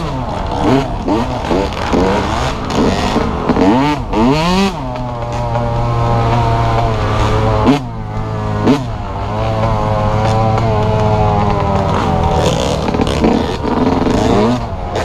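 Dirt bike engine being ridden, revving up and down repeatedly for the first few seconds, then holding a fairly steady pitch, with two brief throttle drops around eight seconds in.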